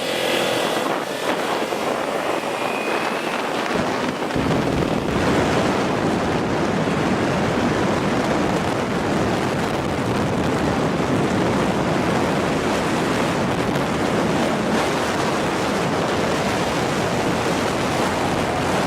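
Steady wind rushing over the microphone on a moving motorcycle, with the low rumble filling in about four seconds in as speed picks up.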